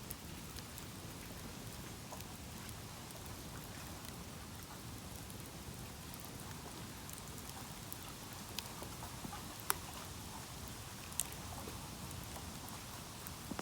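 Bamboo burning in an open campfire: a steady crackle with scattered sharp pops, three loud ones in the second half.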